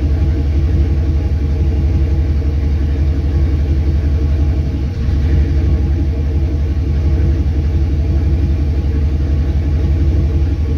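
Car engine idling steadily at about 690 rpm, a steady low rumble.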